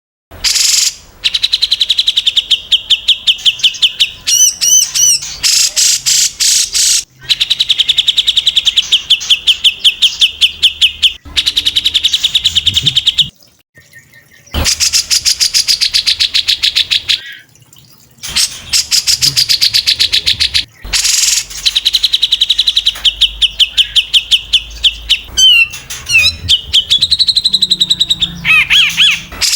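Songbird singing in long, very fast trills of rapidly repeated high notes, broken by short pauses, with a few quick up-and-down whistled phrases near the end.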